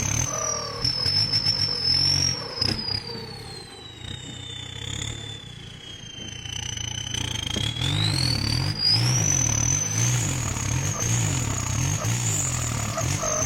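Tractor engine working hard under load, easing off partway through with a high whine falling in pitch, then revving back up, the whine rising with it.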